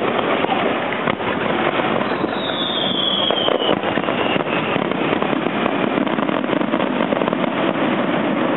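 A fireworks display, with faint scattered pops and a short falling whistle about two and a half seconds in, over a steady dense noise.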